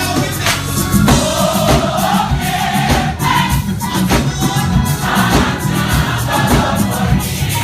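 Gospel choir singing with a live band, with drums and bass keeping a steady beat.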